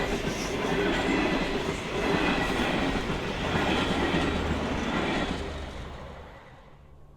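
Train passing close by: a loud, steady rush of wheel-on-rail noise that fades away over about a second near the end.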